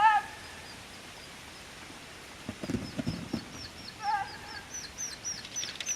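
Short animal calls, one at the start and another about four seconds in, with a few dull knocks in the middle and a rapid run of high chirps growing louder near the end.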